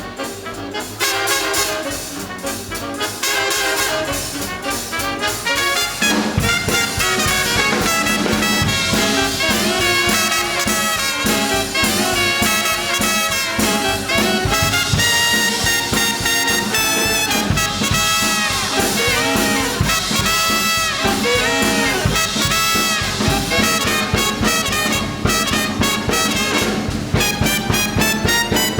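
Swing big band playing an up-tempo instrumental, with trumpets and trombones out front. About six seconds in, the bass and drums fill in under the horns and the full band plays on loudly.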